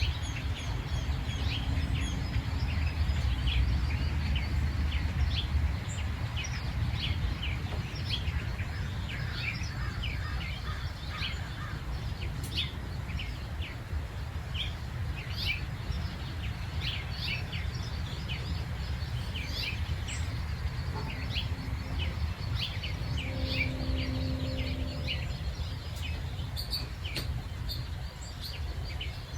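Many small birds chirping and singing in a morning chorus of short, quick notes, over a steady low background rumble.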